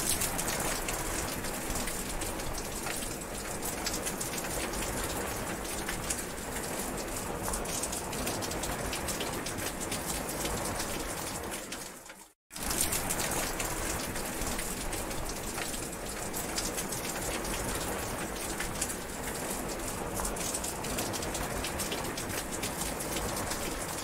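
Steady rain falling, an even hiss dotted with many small drop ticks. It cuts out for a moment about halfway through, then starts again.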